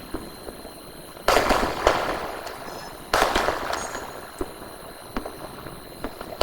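Sky shot fireworks going off: two loud bangs about two seconds apart, each echoing away, with smaller sharp pops in between.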